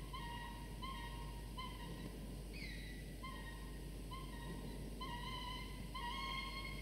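A bird calling over and over: short, clear, whistle-like notes about half a second long, repeated at uneven gaps of roughly a second, with one down-slurred note partway through, over a faint steady hum.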